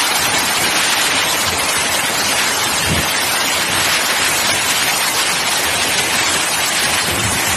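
Heavy hailstorm downpour: a dense, steady hiss of rain and hail beating down.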